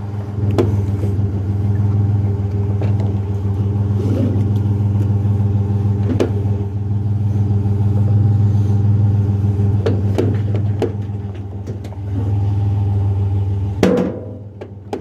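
Pickup truck engine idling steadily, with a few scattered knocks and clunks.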